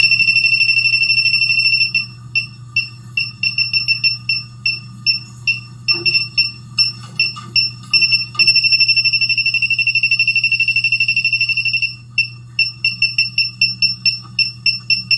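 Electronic gas leak detector's buzzer sounding a high-pitched tone, first held steady, then breaking into beeps that speed up until they merge into a continuous tone, then beeping rapidly again near the end. The faster the beeping, the closer the sensing tip is to the gas leak, here natural gas. A steady low hum sits underneath.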